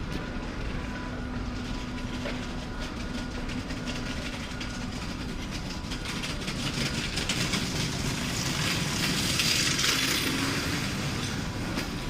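A train moving through the station: a steady low rumble with faint steady hums, and a hiss of rail noise that swells to its loudest about nine to ten seconds in, then eases off.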